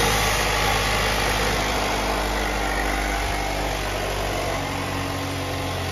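2021 Jeep Wrangler's turbocharged 2.0-litre four-cylinder engine idling steadily: a low-mileage engine run as a test.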